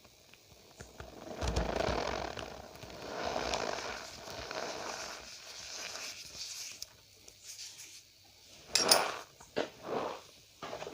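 Cornstarch powder being squeezed and rubbed by hand, packing with a crunchy squeak: a long stretch of rubbing, then several short, sharp squeaks near the end.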